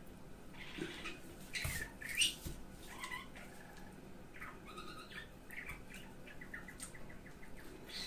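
Small bird chirping and twittering in quick runs, with a couple of louder, sharper scrapes about two seconds in.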